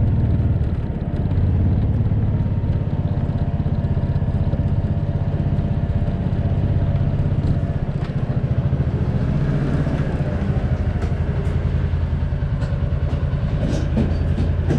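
A vehicle engine running steadily, with light clicks and knocks in the last few seconds.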